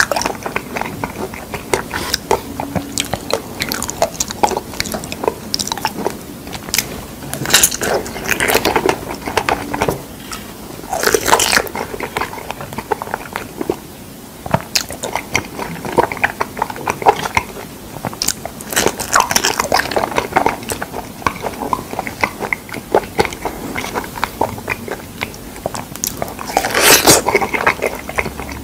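Close-miked eating of fresh figs: wet chewing and biting with many small clicks and crunches, rising in louder bursts every several seconds.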